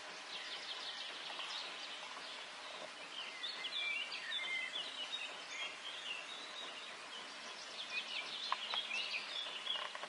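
Birds chirping in short, irregular calls over a faint steady hiss, with a few faint clicks near the end.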